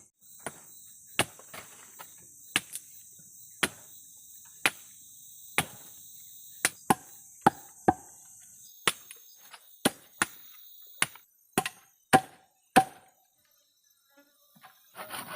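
Chopping into wood with a blade, sharp strikes about once a second, some in quick pairs, stopping near the end. A steady high-pitched insect drone, cicadas or crickets, runs underneath and stops about two-thirds of the way through.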